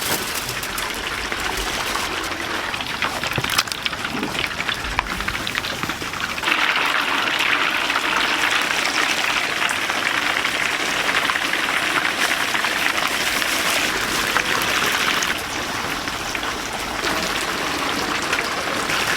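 Food deep-frying in a vat of hot oil, a steady dense sizzle and crackle. It swells louder from about six seconds in, drops back near fifteen seconds, and swells again near the end.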